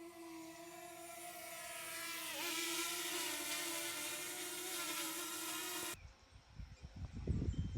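A steady buzzing hum with a clear pitch that wavers and dips briefly midway, growing louder, then cutting off abruptly about six seconds in. Faint high chirps and low gusting noise follow near the end.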